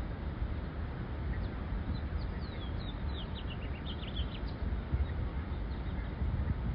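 Bird singing: a quick run of high chirps and short falling whistles in the middle, over a steady low rumble of background noise.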